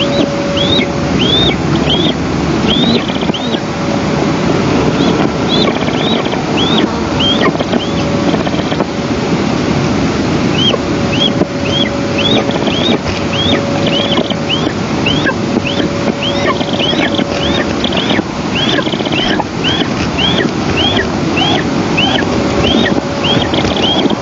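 Wind buffeting the microphone in a steady rush, with a bird repeating a short, high, thin call, rising then falling, about one to two times a second.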